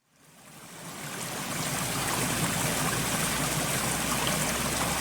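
Steady hiss of water, rain-like, with a low rumble underneath. It fades in from silence over about the first second and a half, then holds steady.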